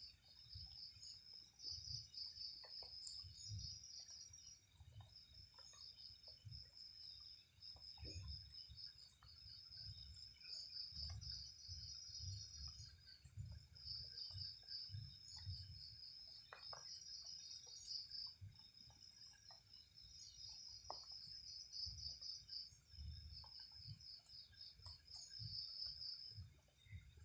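Insects chirping at night, a faint high-pitched pulsing in trains of a second or two separated by short pauses, over a faint uneven low rumble.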